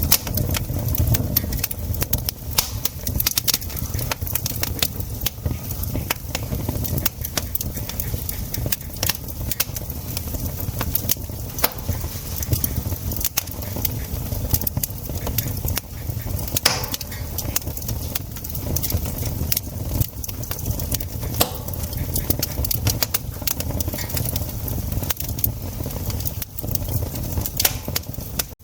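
Wood fire crackling, with frequent, irregular sharp pops and snaps over a steady low rumble.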